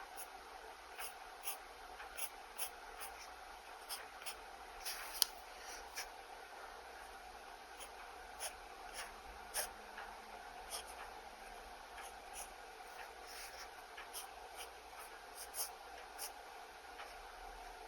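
Pen nib scratching across sketchbook paper in short strokes, with frequent small sharp ticks as the pen touches down and lifts off.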